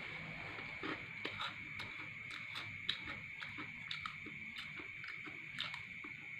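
Close-up mouth sounds of a man chewing a mouthful of rice, with many small wet clicks and the light scrape of a metal spoon in rice on a paper wrapping. A faint steady high tone runs underneath.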